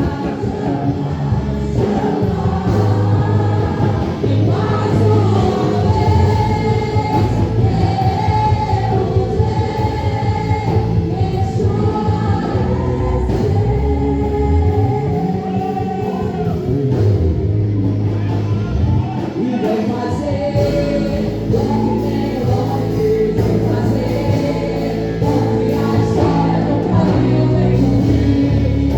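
Gospel praise song: voices singing together over instrumental accompaniment with held bass notes.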